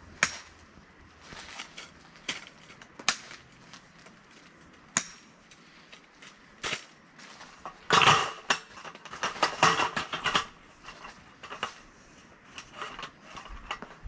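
Scattered sharp knocks and clinks of hard objects being handled, with a denser run of clattering about eight to ten seconds in.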